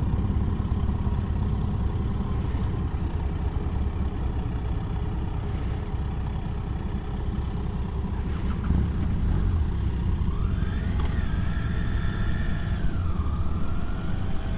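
Triumph Tiger 800's three-cylinder engine running as the motorcycle pulls away and gets under way. About ten seconds in, a whine rises in pitch, holds for a couple of seconds, then drops and rises again near the end.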